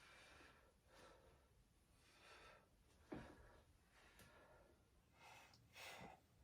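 Near silence with faint breathing from a person exercising: soft breaths about once a second. There is a brief soft knock about three seconds in.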